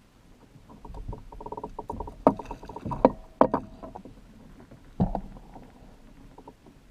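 Knocks and clicks of gear being handled on a plastic fishing kayak: a quick run of clicks about a second in, then several sharp knocks about two, three and five seconds in.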